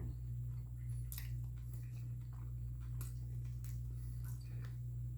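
Close-up chewing of a mouthful of sandwich, with scattered soft wet mouth clicks and squishes. Under it runs a steady low hum.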